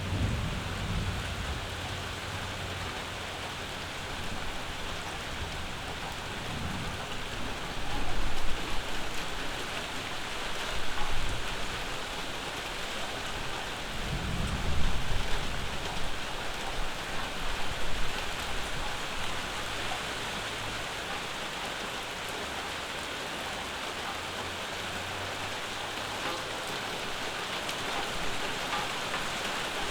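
Steady summer rain falling, with several low rumbles of thunder, the strongest about halfway through.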